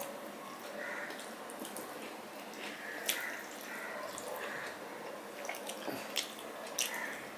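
Close-miked eating sounds: soft wet chewing and mouth smacks as rice and curry are eaten by hand, with a few sharp clicks, the clearest about three and six seconds in.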